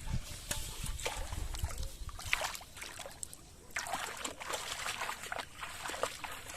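Shallow water sloshing and trickling, with many small, irregular splashes.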